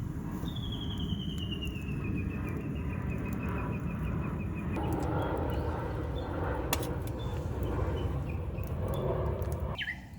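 A bird's descending trill of rapid notes, dropping in pitch over about four seconds, over a steady low rushing noise. A few sharp clicks come later, and the sound cuts off abruptly near the end.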